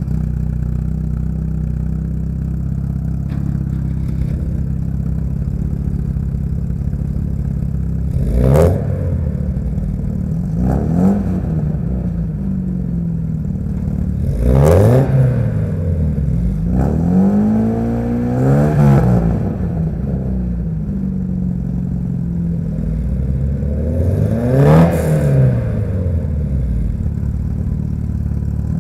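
Porsche inline-four engine idling at the exhaust, its throttle blipped about five or six times. Each rev rises and falls back to idle.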